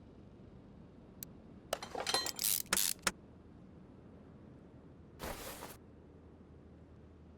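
Clinking and rattling of small hard objects for about a second and a half, then a short hiss about five seconds in.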